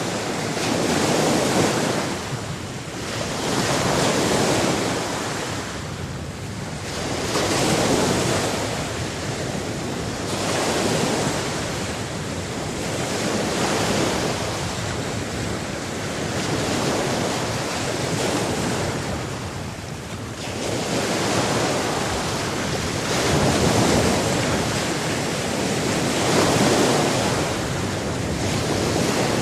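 Sea surf: waves washing in and breaking, the rush of water swelling and ebbing every few seconds.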